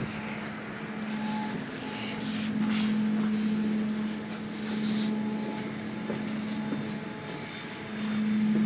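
Steady droning hum of a Boeing 787 Dreamliner airliner, swelling and easing every couple of seconds over a background hiss.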